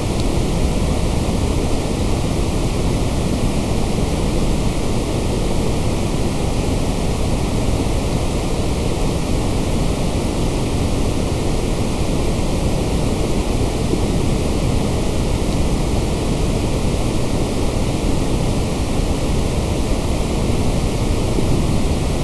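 Steady, unchanging white-noise hiss from a sleep and focus noise track, fuller in the low end than in the highs.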